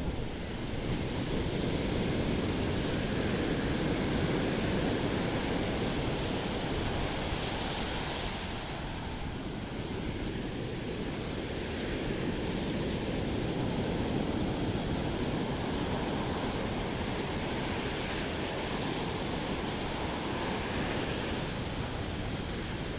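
Sea waves washing onto a beach: a steady rushing surf that swells and eases slowly, with some wind on the microphone.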